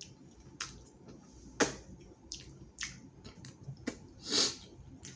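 Close-up eating sounds: wet chewing and mouth smacking of food, with scattered clicks and a brief hissy slurp about four seconds in.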